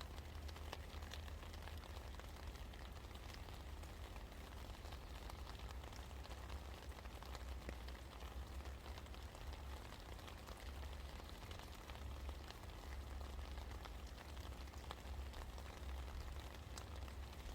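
Steady rain coming down: a constant hiss of many small drops patting on surfaces, with a low steady rumble underneath.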